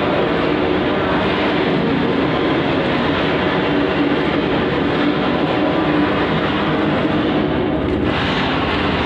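Steady, loud machine drone, like an engine running continuously, with a brief change in its upper hiss about eight seconds in.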